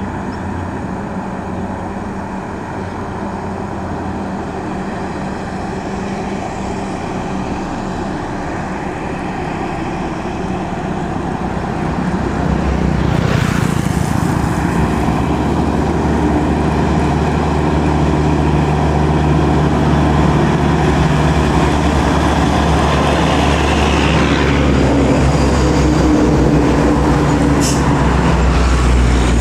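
Heavy diesel road traffic, buses and trucks, running past on a highway. The engine drone grows louder about twelve seconds in and stays loud.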